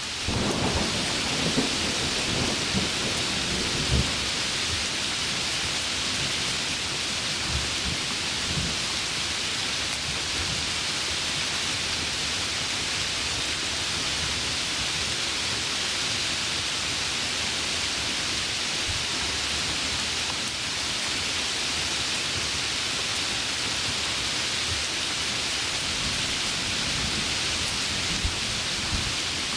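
Heavy rain pouring steadily, with low thunder rumbling through the first several seconds and faintly again near the end.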